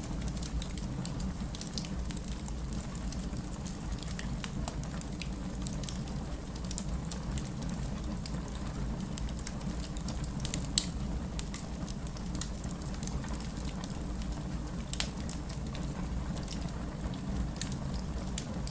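Wood fire burning in a fireplace: a steady low rumble of flames with scattered crackles and snaps from the burning logs, and one sharper pop a little past halfway.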